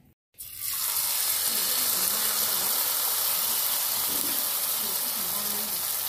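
Fresh batter of tiny field shrimp and scallions sizzling in hot oil in a frying pan as it is ladled out and spread. The sizzle starts suddenly about half a second in and stays loud and steady.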